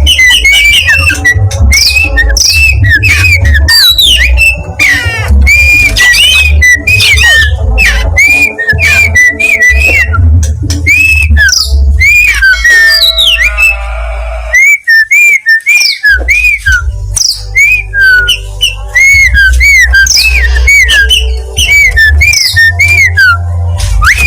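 Oriental magpie-robin of the black-breasted East Javan form (kacer dada hitam) singing loud and without letup: fast runs of whistled chirps and slurred rising and falling notes, broken by a short pause a little past halfway.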